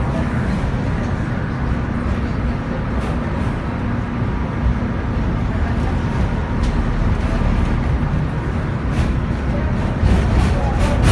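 Tram running along the track: a steady low rumble of the car in motion, with a few sharp clicks and a slight rise in loudness near the end.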